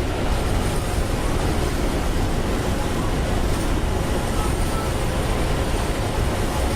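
Steady rushing of airflow over a glider's canopy and airframe in flight, heard inside the cockpit, with no engine.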